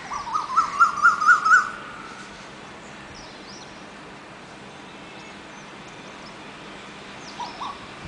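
An Asian koel calling: a quick run of about seven hooting notes that climb in pitch, over the thin, high chattering of baya weavers. Near the end come two more short low notes and a few faint chirps.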